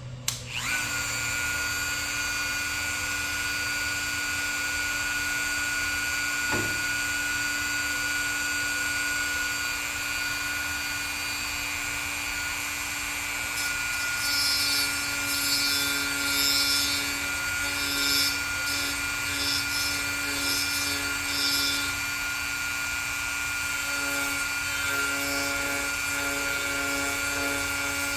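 Wood lathe switched on, its motor running with a steady whine. From about halfway it is joined by intermittent rough scraping, a tool or abrasive rubbing on the spinning wood.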